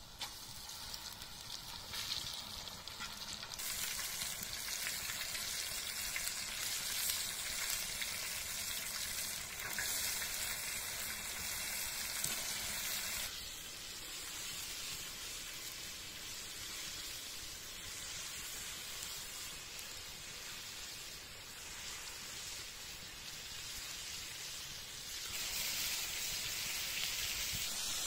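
Flour-dredged chicken fillets frying in hot oil in a wide, shallow steel pan: a steady sizzle that drops in level about halfway through and grows louder again near the end.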